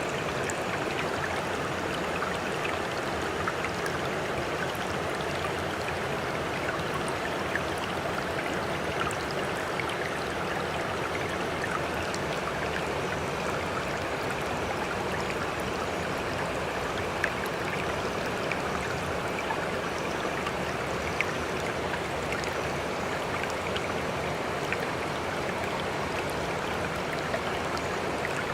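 Sea water lapping and splashing steadily, with small sharp drips and splashes scattered through it.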